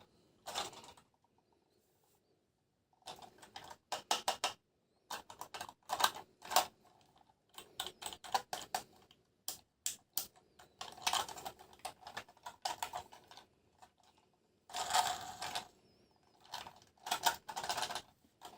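Plastic toys and their packaging being handled: irregular clicks, taps and short rustles, quiet for the first couple of seconds, with longer rustles about fifteen and seventeen seconds in.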